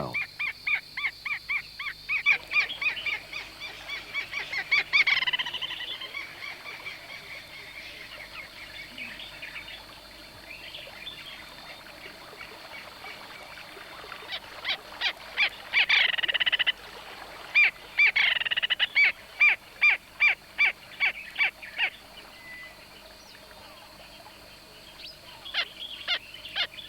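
Giant kingfishers calling: bouts of harsh, rapidly repeated notes, about four or five a second, at the start, again in the middle and briefly near the end.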